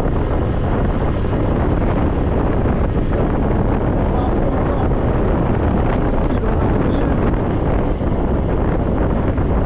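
Wind buffeting the microphone of a scooter rider on the move: a steady, loud, low rumble of rushing air.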